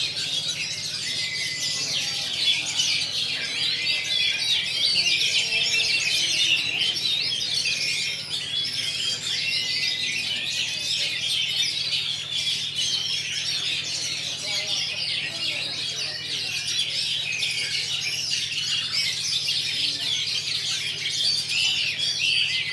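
Oriental magpie-robins (kacer) singing: a dense, continuous stream of overlapping chirps and whistles.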